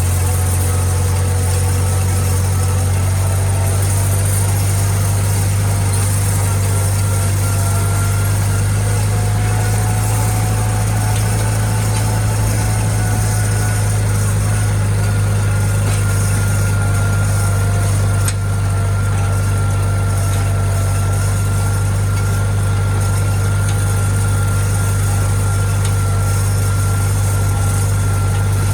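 International Harvester tractor engine running steadily at constant speed, with a faint steady whine above the engine note.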